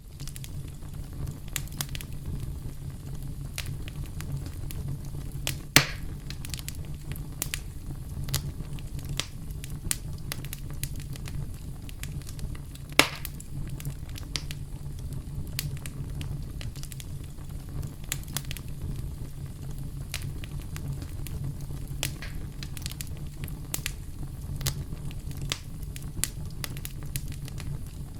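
Campfire crackling: a steady low rumble of burning with frequent irregular small pops and snaps, and two louder pops about six and thirteen seconds in.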